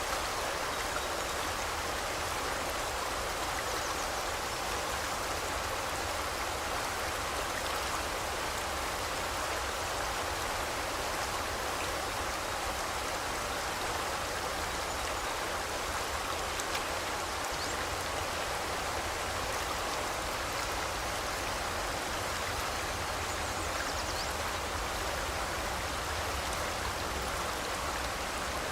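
A forest river's water rushing steadily, an even unbroken sound without pauses.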